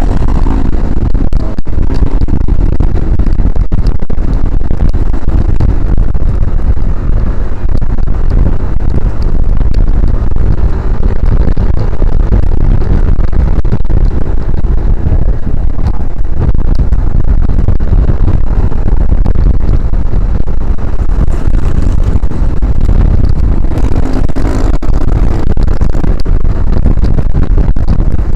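Wind buffeting the microphone of a body-worn action camera on a moving motorcycle, a loud steady rumble with the bike's engine and road noise beneath it.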